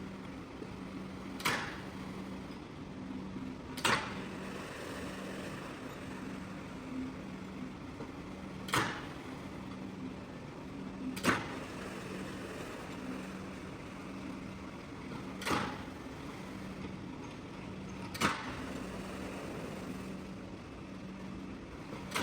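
Rug-cleaning work: a steady machine hum with a short swish every few seconds, seven in all.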